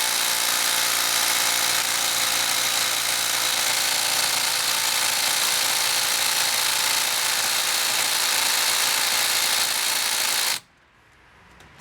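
Ridgid subcompact brushless impact driver hammering steadily in reverse on a tight lug nut for about ten seconds, then cutting off suddenly. The nut does not break loose.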